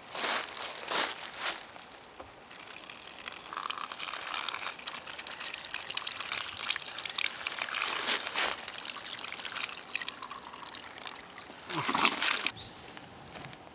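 Water pouring and trickling, with louder splashy bursts at the start and again near the end.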